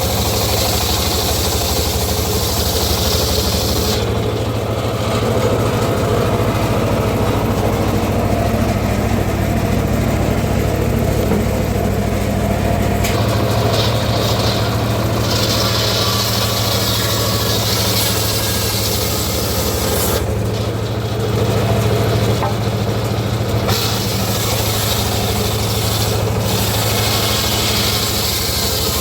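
Engine-driven homemade circular sawmill running steadily, its engine humming throughout while a high hissing, rasping sound of the blade cutting teak comes and goes several times.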